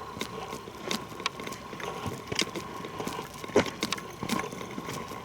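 Footsteps crunching on a forest trail, irregular steps, the loudest about three and a half seconds in, with a faint steady high tone underneath.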